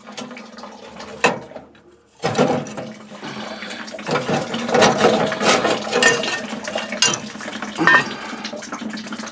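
Water rushing and splashing as the old gas boiler drains, swelling suddenly about two seconds in and running on steadily, with a few sharp clinks.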